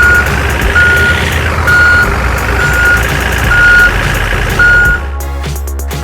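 Truck reversing alarm beeping at one steady pitch, about once a second, six beeps over a rising engine noise. The beeping stops about five seconds in.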